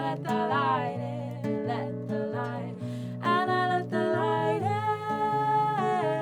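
Acoustic guitar accompaniment with a voice singing a wordless melody that glides between held notes.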